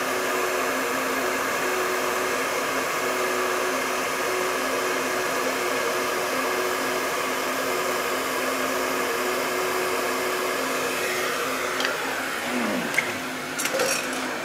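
Heat gun running steadily with a blowing hiss and a motor hum. It is switched off about twelve seconds in, its fan winding down with a falling pitch, followed by a few sharp clicks.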